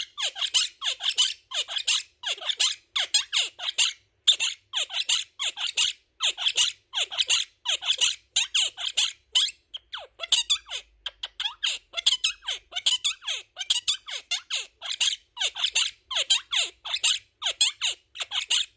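Quaker parrot chattering: a continuous string of short, high-pitched chirps and squeaks, several a second.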